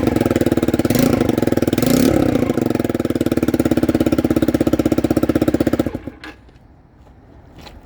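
Honda CBR motorcycle engine idling with a rapid, even pulse from an exhaust leak, with a short blip of the throttle about two seconds in. The engine cuts off about six seconds in, leaving only a few faint clicks.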